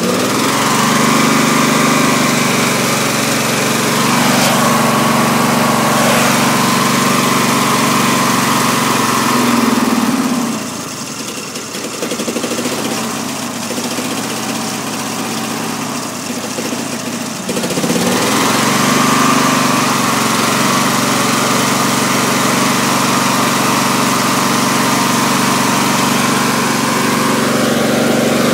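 Briggs & Stratton opposed-twin engine on a riding lawn tractor running steadily with the choke off, its carburettor freshly cleaned. About ten seconds in the revs drop and it runs slower and quieter, then picks back up near eighteen seconds.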